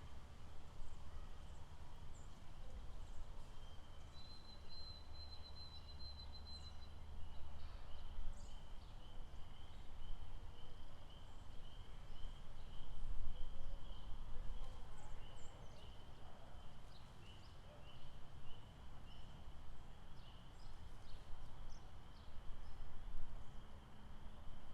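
Lakeside outdoor ambience: a steady chorus of quick, high, pulsing chirps, with a higher trill for a few seconds near the start, scattered short chirps above, and a low rumble underneath.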